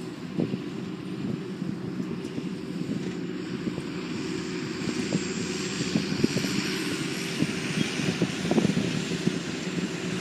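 Diesel engine of silage-harvesting farm machinery running steadily, with a few light knocks and rattles over it.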